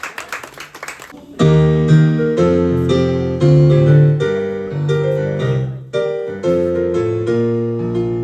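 Applause dies away during the first second. Then a piano starts the introduction of a song, playing sustained chords that change every half second to a second.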